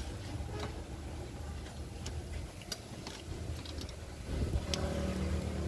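Engine running steadily with a low rumble and scattered light clicks; about four seconds in it gets louder.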